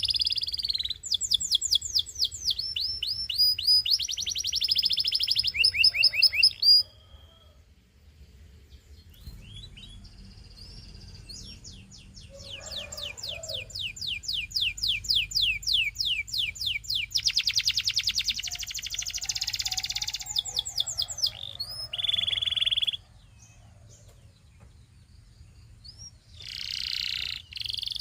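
Domestic canary singing: phrases of fast trills, each made of one short high note repeated rapidly, with short pauses between phrases about a third of the way in and again late on.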